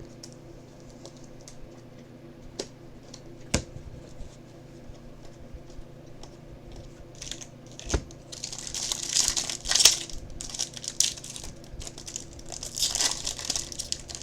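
A few light clicks and taps, then from about eight seconds in the crinkling and tearing of a foil trading-card pack wrapper being ripped open.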